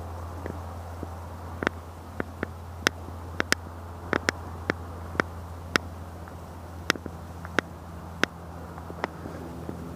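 A string of sharp, irregular clicks and taps, about fifteen in all and loudest in the middle, over a steady low hum.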